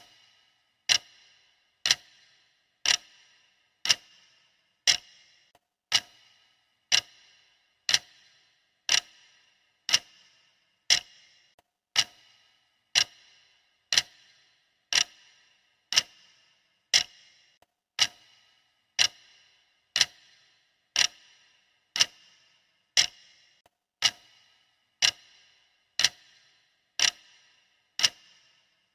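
Clock ticking steadily, one sharp tick every second, each dying away quickly.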